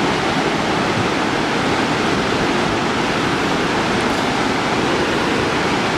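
Steady, loud rush of a waterfall and river in heavy flow, swollen by unusually high rainfall.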